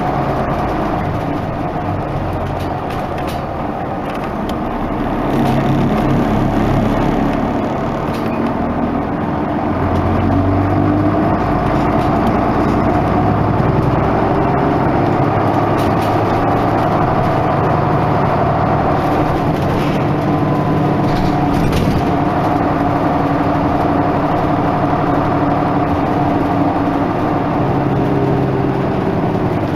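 Isuzu Erga Mio medium-duty bus's diesel engine running under way. Its pitch climbs and drops with acceleration and gear changes, and it grows louder about five seconds in.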